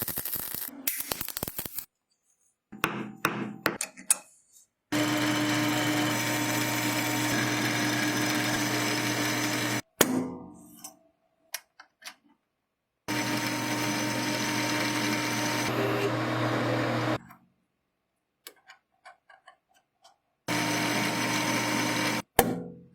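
Electric power tool motor running steadily with a steady hum and grinding noise, in three stretches of several seconds each, broken by abrupt cuts to silence. Short knocks and scrapes of hand work come in the gaps between.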